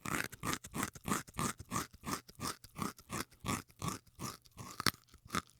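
An animal chewing crunchy food: a steady run of short crunches, about three a second.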